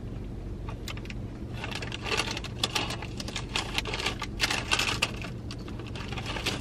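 Close-miked chewing of a crispy breaded buffalo chicken nugget. A run of crackly, clicking crunches starts about a second and a half in and lasts to about five seconds in, over a low steady hum.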